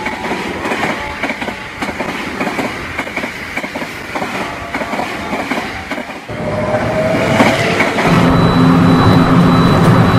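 A train running over rail joints with a rapid clickety-clack. About six seconds in, this gives way to a rising whine and then a louder, steady motor hum with several held tones.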